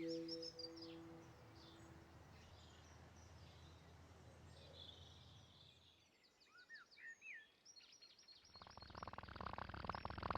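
Faint birdsong chirps over quiet outdoor ambience, as the last held music notes fade out in the first second or so. Near the end a louder rough, rasping noise starts up.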